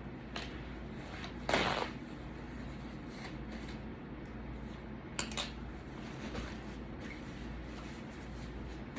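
Handling noises while eating: a short rustle about a second and a half in and a few sharp clicks around five seconds, over a steady low hum.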